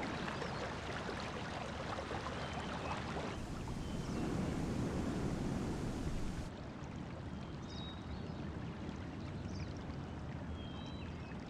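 Running water, a steady stream-like rush of spring water flowing over tufa terraces, with a few short bird chirps. The sound shifts slightly at two cuts, about a third and about halfway through.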